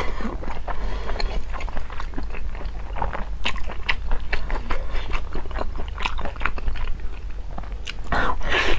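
Close-miked chewing of a mouthful of braised meat: many short wet clicks, with a louder bite near the end.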